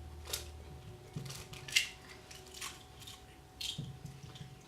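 A few short, irregular scrapes and clicks of a kitchen utensil against a mixing bowl while cake batter is being mixed, over a faint steady hum.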